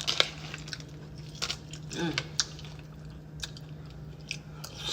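Crunchy cereal in milk making scattered wet crunching and squishing sounds, with a brief pitched sound about two seconds in.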